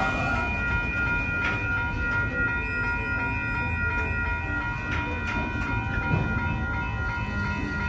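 Union Pacific freight train of autorack cars rolling past: a steady low rumble of wheels on rail, with steady high-pitched ringing tones over it and a few sharp clicks about a second and a half and five seconds in.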